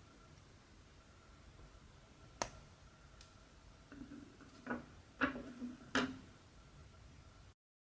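A few small hard objects being handled: one sharp click, then about two seconds later three light knocks and clicks in quick succession. The sound cuts off just before the end.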